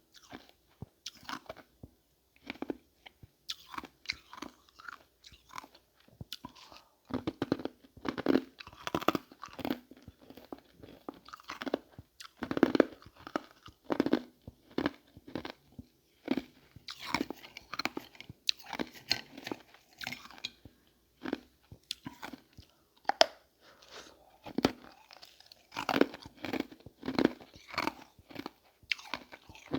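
Ice being bitten and chewed, a run of irregular crisp crunches with short pauses between bites.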